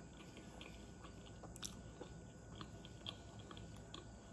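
A person chewing a mouthful of rice and curry with the mouth closed. It is faint, with soft, irregular clicks from the mouth.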